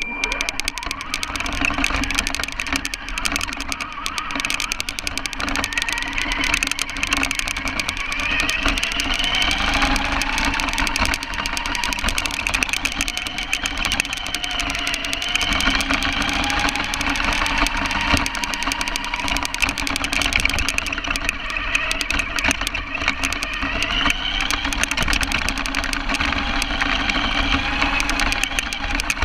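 Radio-controlled car driving, heard from a camera mounted on it. A high motor whine rises and falls in pitch as it speeds up and slows, over a steady noise from the running car. The sound cuts in suddenly at the start.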